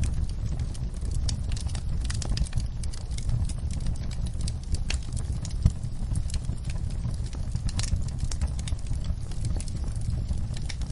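Campfire burning: a steady low rumble of the flames with irregular crackles and small pops, and one sharper pop about halfway through.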